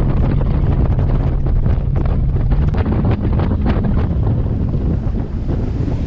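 Bass boat running across the lake: steady outboard engine hum under heavy wind buffeting the microphone, with a few sharp knocks about three seconds in.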